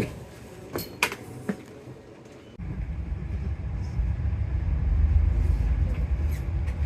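A few light clicks and knocks. Then, about two and a half seconds in, the low steady rumble of a running bus engine starts abruptly and carries on.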